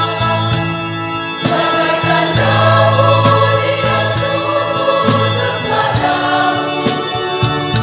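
A church congregation choir singing a sacred song in harmony, with held chords over a low bass line.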